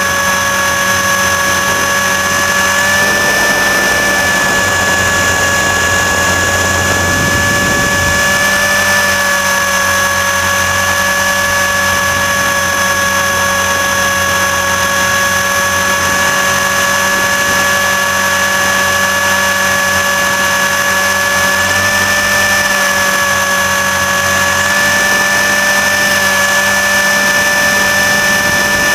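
RC helicopter's motor and rotor running with a steady high whine, picked up by a camera mounted on the helicopter; the pitch shifts slightly a few times, as the throttle or rotor load changes.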